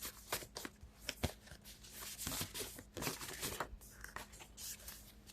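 Tarot cards being shuffled by hand: a quiet, irregular run of rustles and light card clicks.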